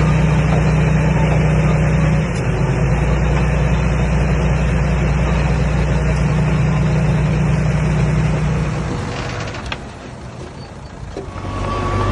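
Komatsu D21A bulldozer's diesel engine running steadily, then fading away about nine seconds in. A different sound with a steady higher whine comes in near the end.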